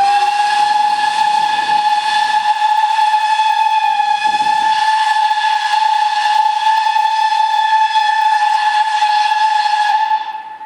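Whistle of the PT47-65 steam locomotive blowing one long, steady blast of about ten seconds, then dying away near the end.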